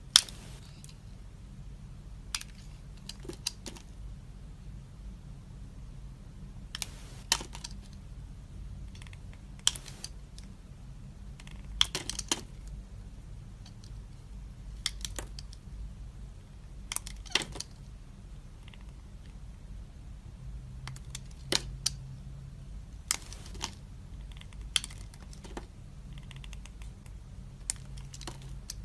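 A knife cutting dry soap, giving sharp crisp snaps and clicks every second or two, some coming in quick pairs or small clusters.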